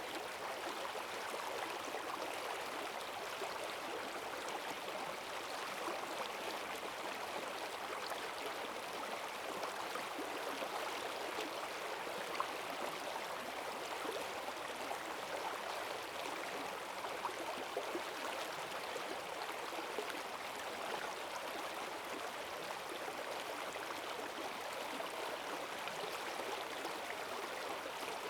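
Forest stream running high after heavy rain, its strong current rushing steadily over rocks.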